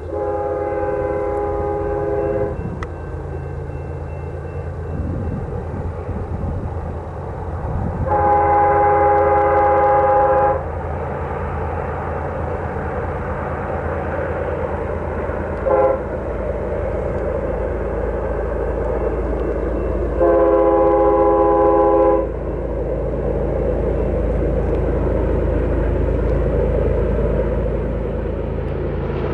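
First-generation Nathan K5HL five-chime air horn on a BNSF freight locomotive sounding the grade-crossing signal: long, long, short, long. Under it runs the steady low rumble of the diesel locomotives and the passing train.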